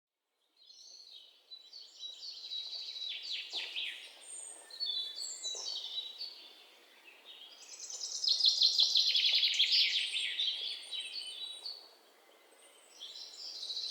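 Songbirds singing: a run of fast, high, chattering songs and trills, loudest about eight seconds in.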